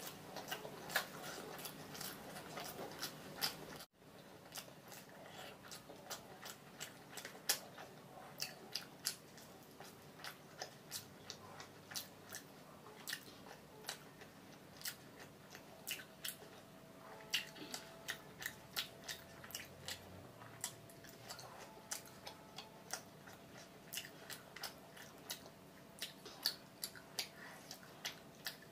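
Close-miked chewing and mouth sounds of a person eating rice and fish by hand: a run of short, frequent clicks and smacks, with a brief gap about four seconds in.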